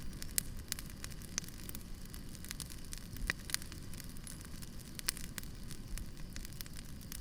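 Wood campfire crackling: irregular sharp pops and snaps, a few of them louder, over a steady low rumble of the burning fire.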